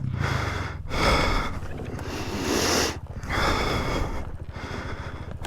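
A rider breathing hard, long loud breaths in and out close to the microphone, with a dirt bike engine running low and steady underneath.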